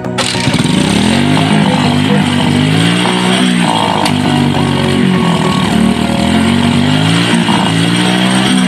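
Small engine running and being revved up and down several times, its pitch rising and falling.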